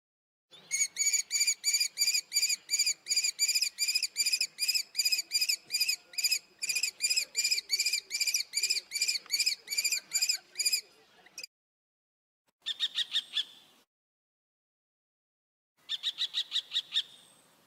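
Common kestrel calling: a long run of high-pitched repeated notes, about three a second, for about ten seconds, then after short silences two briefer, faster bursts of the same call.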